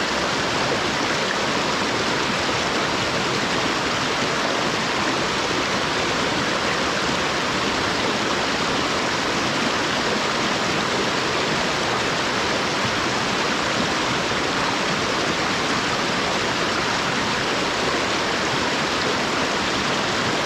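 Stream water rushing in a steady, unbroken hiss.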